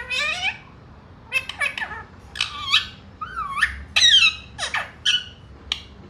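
Indian rose-ringed parakeet giving a rapid run of about ten short squawks and chattering calls, each bending sharply in pitch.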